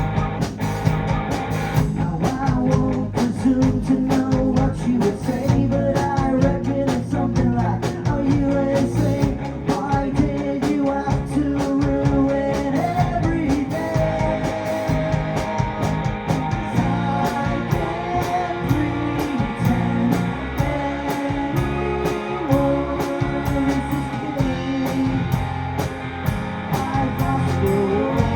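Live rock band playing a song, with electric guitar, bass, drums and keyboards.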